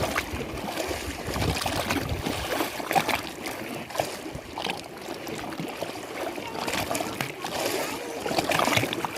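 Lake water splashing and lapping, with irregular slaps over a continuous wash.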